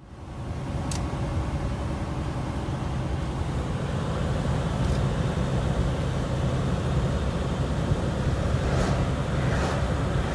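Semi truck's diesel engine running steadily while driving, with a constant low hum and road noise heard from inside the cab.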